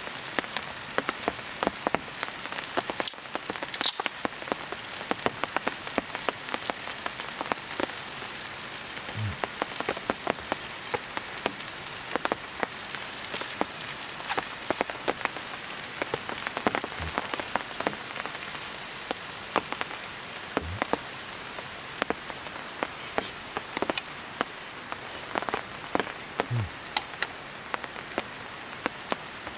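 Wood campfire crackling and popping, a dense run of irregular sharp snaps over a steady hiss.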